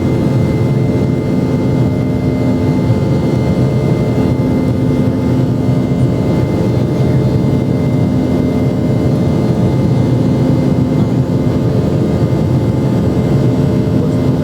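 Steady in-cabin drone of a Boeing 717's rear-mounted Rolls-Royce BR715 turbofan engines in flight. There is a low hum through it, and a slightly higher tone fades in and out every few seconds.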